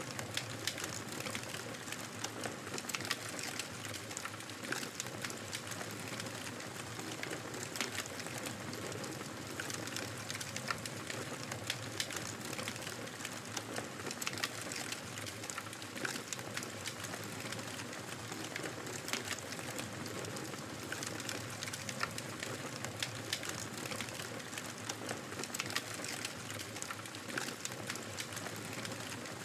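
Wood fire crackling in a fireplace: a steady low hiss with frequent, irregular sharp pops and snaps.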